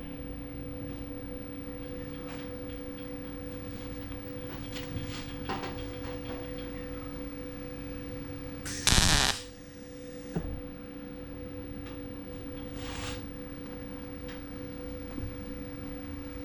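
Steady workshop hum of two pitches, broken about nine seconds in by one short, loud crackling burst: a single MIG tack weld on the car's steel body panel.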